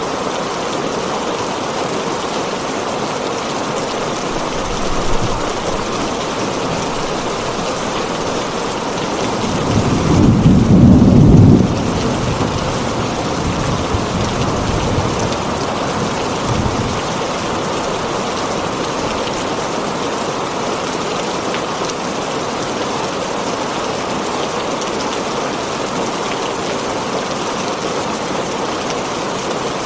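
Heavy rain on a tin roof, a steady dense patter. About ten seconds in, a roll of thunder swells and is loudest for about two seconds, then rumbles away over the next few seconds.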